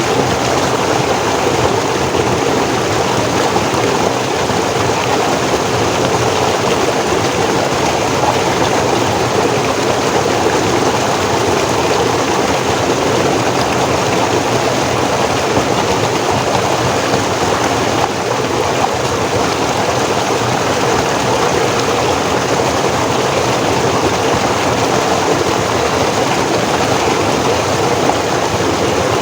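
Forest stream flowing over rocks, a steady, loud rush of water that does not change.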